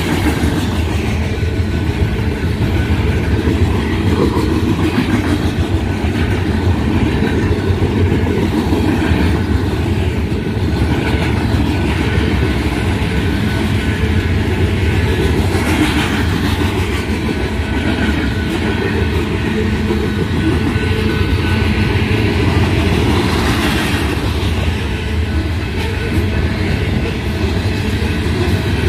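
A freight train's covered hopper cars rolling past at close range: a loud, steady, mostly low noise of steel wheels running on the rails.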